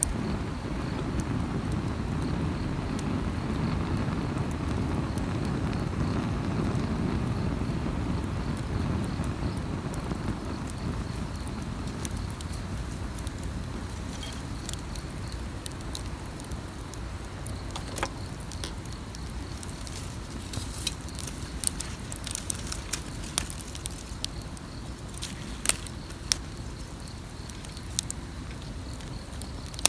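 Wood campfire crackling, its pops and snaps growing more frequent in the second half. A steady low rushing noise in the first third fades out.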